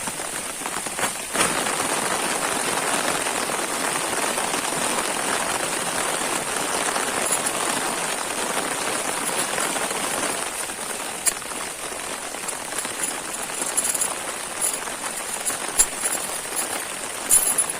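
Heavy rain falling in a steady hiss, easing about ten seconds in to lighter rain with scattered drops and taps.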